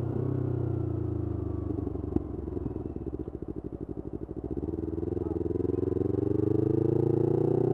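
Yamaha R25's 250 cc parallel-twin engine through a Kea Speed aftermarket exhaust. The revs fall off with a single sharp pop about two seconds in, run low and uneven for a couple of seconds, then climb steadily as it picks up again.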